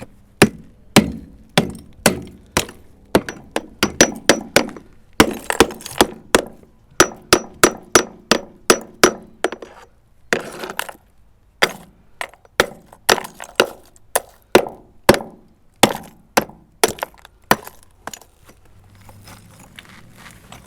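Repeated sharp strikes on clay sewer pipe, each with a hard, ceramic clink, about one to two a second with short pauses, as the cut section of pipe is knocked loose and removed.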